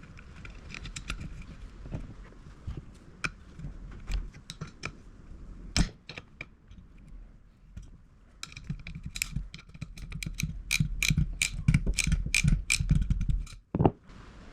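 Irregular metallic clicks and taps of hand tools and small parts being handled. They are sparse at first and come in a quick, dense run from about halfway through.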